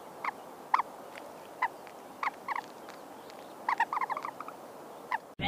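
Short clucking notes from a crowned crane, singly and in quick clusters at irregular intervals. A much louder sound cuts in right at the end.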